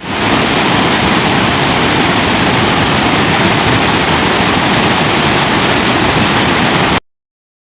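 Water from the overspilling Masinga Dam pouring over the spillway: a loud, steady rush that cuts off suddenly near the end.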